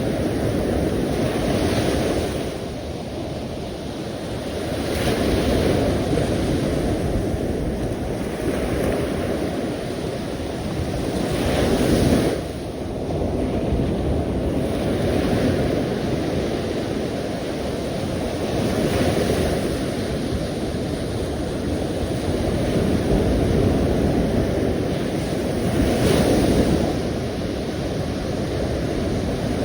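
Sea waves: a continuous rushing wash that swells and eases every few seconds as waves break and draw back, with the strongest surges about twelve seconds in and near the end.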